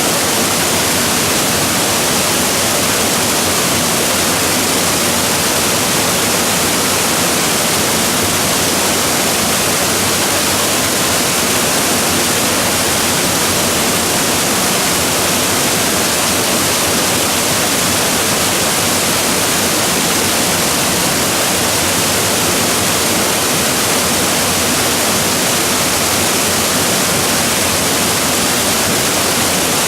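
Waterfall crashing steadily, a loud, unbroken rush of falling water.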